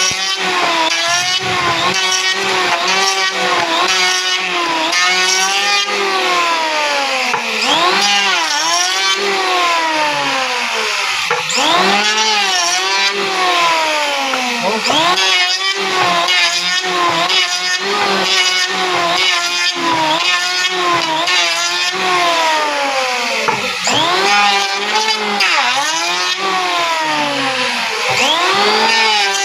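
Electric wood planer running under repeated load as it cuts, its motor pitch sagging as the blades bite into the wood and climbing back between strokes, over and over about once a second.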